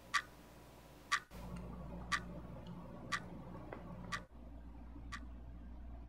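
A wristwatch ticking once a second, six sharp even ticks, over a faint low hum.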